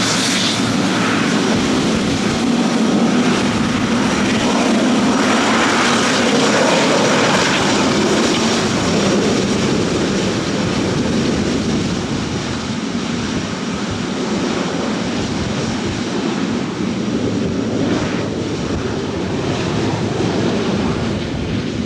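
Airliner engines passing by, a steady rushing noise that swells a few seconds in and then slowly fades.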